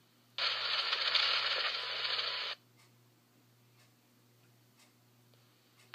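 Two-way radio channel keying up with a burst of static hiss and no voice, lasting about two seconds, then cutting off abruptly as the transmission drops, heard over a scanner.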